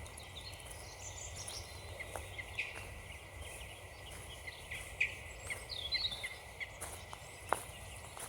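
Footsteps crunching on frozen ground at an unhurried walking pace, with one sharper snap near the end. Small birds chirp in the background.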